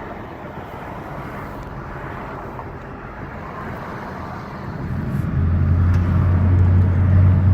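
Car driving: steady road and engine noise, with a low drone that grows louder about five seconds in.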